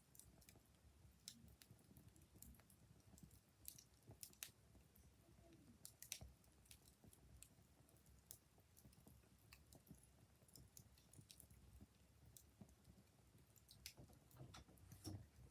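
Faint wood fire crackling: irregular sharp pops and snaps over a low, soft rumble.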